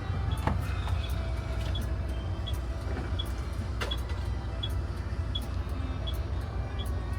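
Inside a moving bus: a steady low engine and road rumble with scattered rattles and clicks, and a faint high tick repeating about every two-thirds of a second.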